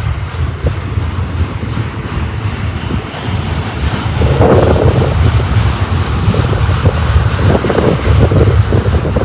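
Gusty wind buffeting the microphone: a loud, uneven low rumble that swells about four seconds in and again near the end.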